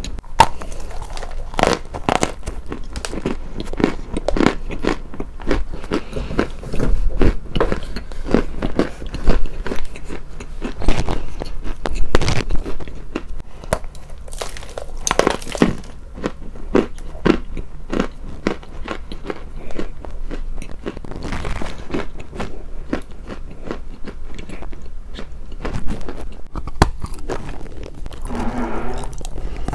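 Close-up crunching: repeated sharp bites into something hard and brittle, then chewing, with dense crackly crunches throughout. Near the end comes a brief hummed 'mm'.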